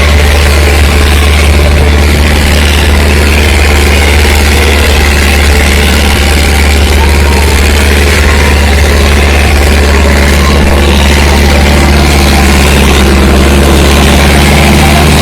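Sonalika 750 tractor's diesel engine running steadily and very loud, close up, as it pulls two harrows.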